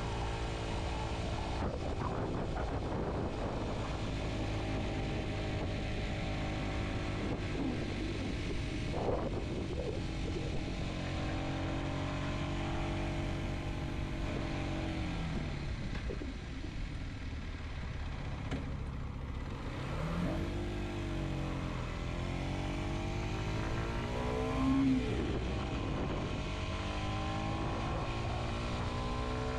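Kawasaki Z125's single-cylinder engine running under way: steady at first, its pitch drops about halfway through as the bike slows, then climbs again in several rising sweeps through the gears in the last third.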